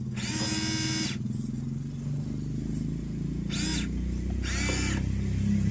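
Radio-controlled car running with a steady low drone, with three short high-pitched whines over it.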